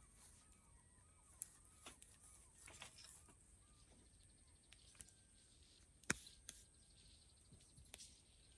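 Quiet outdoor ambience. Faint bird calls sound in the first second or so, over a steady high-pitched hiss. A few scattered sharp clicks follow, the loudest about six seconds in.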